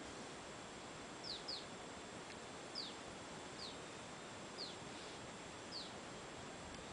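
A bird calling: six short, high chirps, each falling in pitch. The first two come close together a little over a second in, and the rest follow about a second apart, over a steady hiss.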